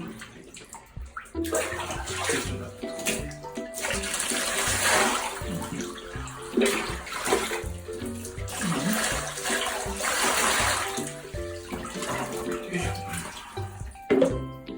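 Water splashing and running in a bathtub in irregular surges, with background music playing underneath.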